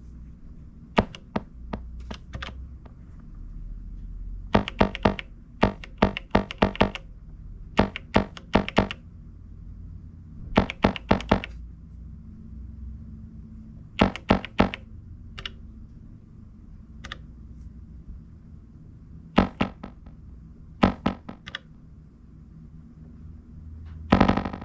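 Plastic keys and buttons of an Elektron Digitakt clicking as they are pressed, in irregular clusters of quick presses with pauses between, over a faint low hum.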